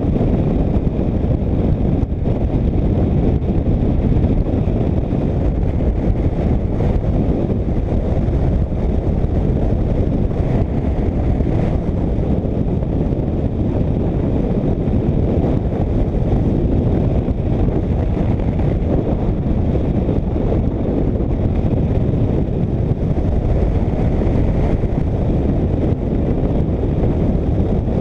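Motorcycle riding at steady road speed, with wind rushing over the microphone and drowning out most of the engine in a loud, even roar.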